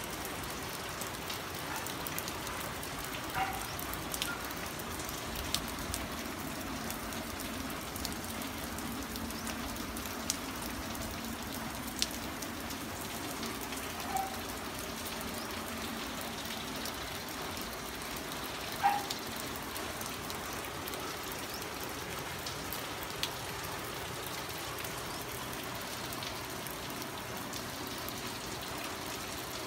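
Steady rain falling on lawn, plants and pavement, an even hiss with scattered drip ticks and a few brief louder plinks, the loudest about two-thirds of the way in.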